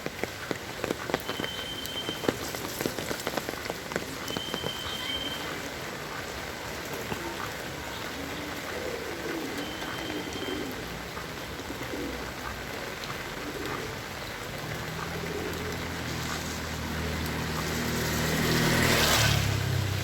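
Heavy rain falling steadily, with close, sharp drips in the first few seconds and three brief high chirps. Near the end a motor vehicle's engine comes up and passes close, loudest just before the end.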